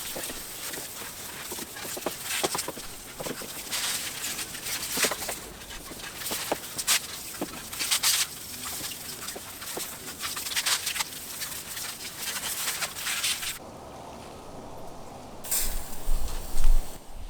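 Fast-forwarded sounds of an engine bay being cleaned: hissing spray and scrubbing, sped up into a rapid run of sharp clicks and chirps. Near the end the hiss cuts off abruptly, leaving a lower rumble and a few louder knocks.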